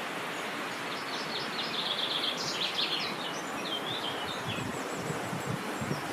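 A small songbird sings a quick run of high chirps for a few seconds over a steady rush of wind.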